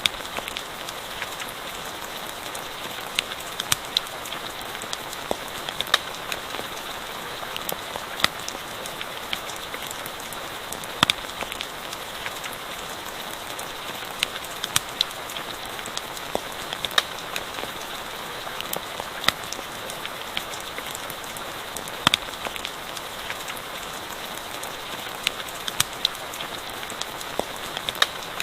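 Steady rain hiss with a campfire crackling, sharp pops scattered irregularly every second or so.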